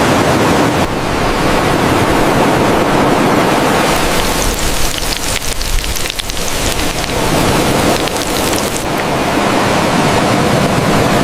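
Loud, steady rushing noise with no clear pitch, like heavy rain, easing a little mid-way.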